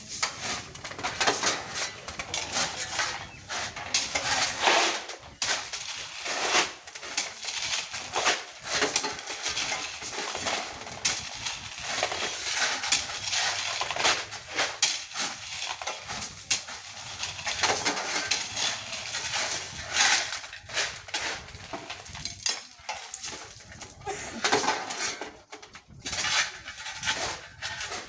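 Stones knocking and clattering against each other as they are loaded, a rapid irregular series of hard clicks and knocks.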